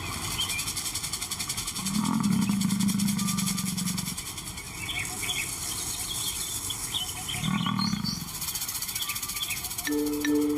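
Male lion vocalising low twice: a long call about two seconds in and a shorter one near eight seconds. Birds chirp faintly in the background.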